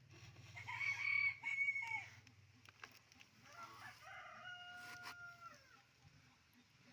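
Rooster crowing twice: a loud crow in the first two seconds, then a longer, quieter crow a couple of seconds later whose held note falls away at the end.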